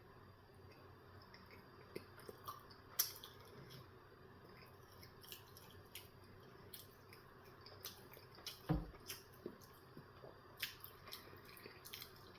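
Faint, scattered wet clicks and smacks of someone chewing a breakfast sandwich close to the microphone, with one duller knock about two-thirds of the way through.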